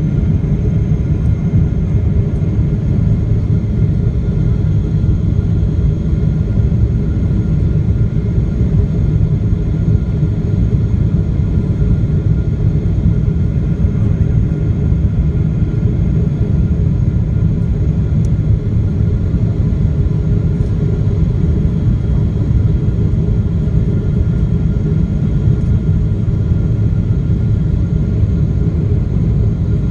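Steady, low cabin rumble of a Boeing 777-300ER in flight: GE90-115B engine and airflow noise, with a faint steady whine on top.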